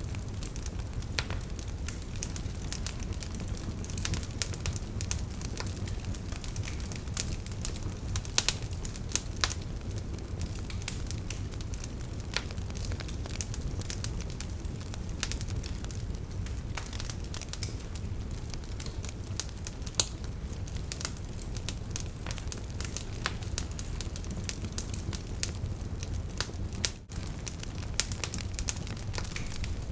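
Campfire of burning firewood crackling, with irregular sharp pops and snaps over a steady low rumble. The sound drops out for an instant near the end.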